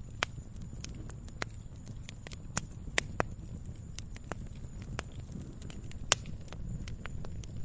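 Firewood burning: irregular sharp crackles and pops over a low steady rumble of the flames, the loudest pop about six seconds in.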